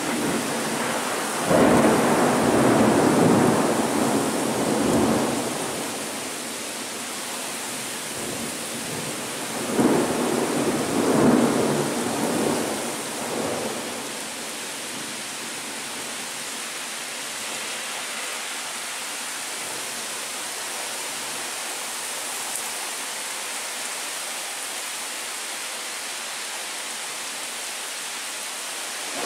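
Thunder rumbling over steady rain during a lightning storm: a rumble swells about a second and a half in and lasts about four seconds, a second rolls in about ten seconds in, then only the steady hiss of rain remains.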